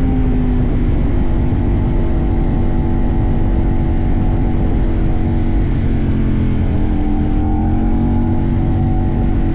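CFMoto 800NK's 799 cc parallel-twin engine running steadily under way, over a constant low rumble of wind and road. The engine note eases slightly near the start and rises again about seven seconds in as the revs pick up.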